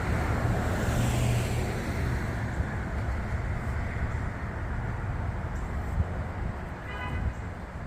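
Street traffic: a car passes close in the first couple of seconds, its tyre hiss swelling and fading, over a steady low traffic rumble. A brief high squeak comes near the end.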